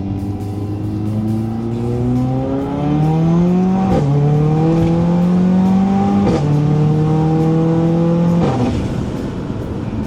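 Mercedes-AMG A45 W176 turbocharged 2.0-litre four-cylinder with a Milltek exhaust accelerating hard: the engine note rises through the revs and drops sharply at three quick gear upshifts, about four, six and eight and a half seconds in.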